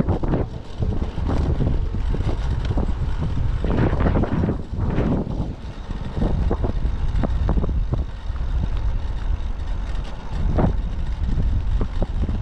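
Typhoon wind buffeting the microphone: a loud, constant low rumble with gusts that swell and ease every second or two.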